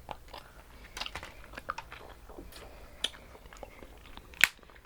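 Close-up mouth sounds of someone eating seafood: wet chewing and lip-smacking with scattered small clicks, and one sharp louder click about four and a half seconds in.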